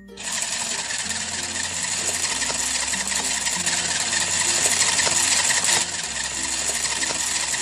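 Toy kitchen appliance running with a steady mechanical whirring buzz that cuts off suddenly at the end, over children's background music.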